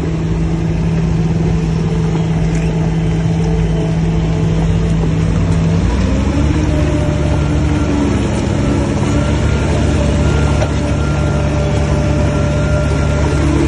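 Heavy diesel engine of earthmoving machinery running steadily. About six seconds in, its note changes and it grows slightly louder, as under a change in load or throttle.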